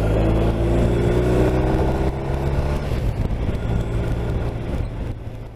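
BMW R 1250 RT's boxer-twin engine running at steady road speed with wind and road noise; the sound gets quieter near the end.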